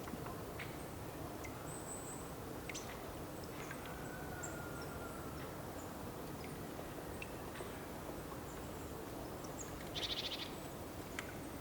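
Outdoor nature ambience: a steady background hiss with scattered short bird chirps and a faint thin whistle, and a brief, rapid, buzzy trill about ten seconds in, the loudest sound.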